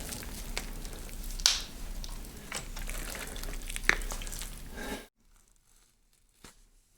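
Dense crackling and crinkling noise with several sharp snaps, stopping abruptly about five seconds in. It is followed by near silence and one faint click.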